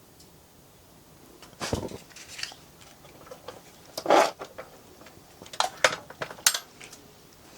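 Camp cookware and utensils being handled as a meal is started: a dull knock, a louder clank about four seconds in, then several sharp clicks and clinks near the end.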